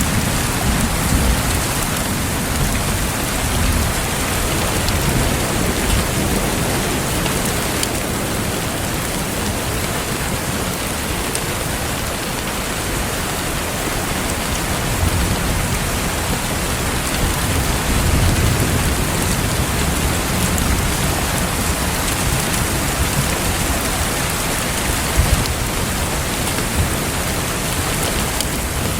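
Steady, heavy rain ambience, with low rumbles of thunder swelling near the start and again midway.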